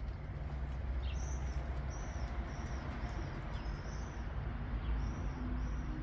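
A small bird calling over and over, short arched high chirps about every half second, over a steady low rumble.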